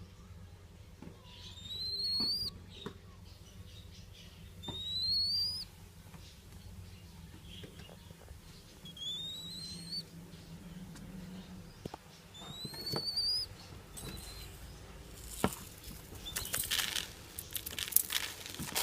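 A hungry dove chick begging for food with thin, high, rising whistled calls, four of them a few seconds apart. Near the end, rustling and crackling as it flutters its wings.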